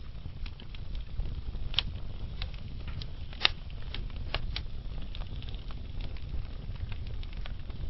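Wood fire burning in a fireplace: a steady low rumble with scattered sharp crackles and pops from the logs, the loudest two about two and three and a half seconds in.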